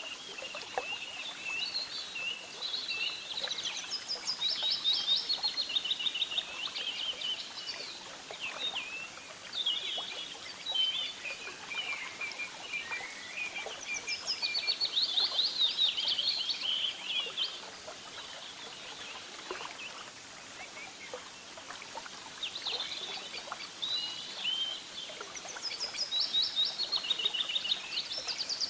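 Birds chirping and singing in quick trilling phrases, in bouts separated by short lulls, over a faint steady outdoor background.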